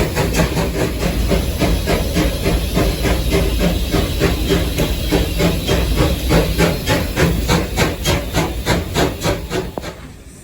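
Steam locomotive working, heard from the cab: a steady run of exhaust beats, about three a second, over hissing steam and a low rumble. It stops suddenly near the end.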